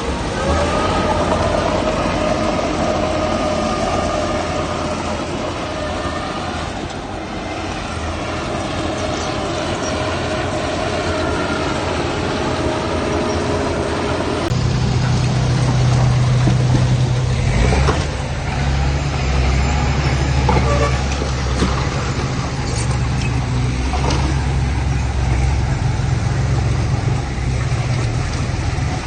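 Heavy diesel earthmoving machinery running: a steady engine note with a higher whine, and about halfway through a deeper, louder engine note comes in and carries on.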